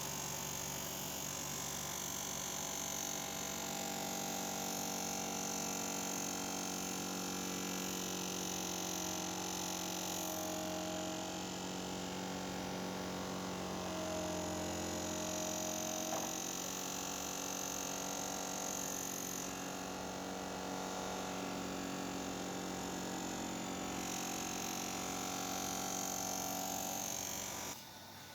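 A steady electric motor hum with a high hiss, typical of a power tool running; it cuts off suddenly near the end.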